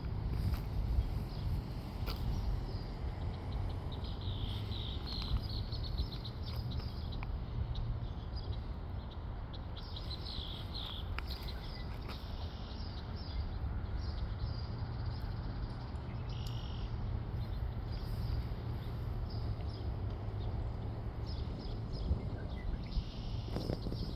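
Small birds chirping in short clusters of high notes, thickest a few seconds in and again near the end, over a steady low background rumble.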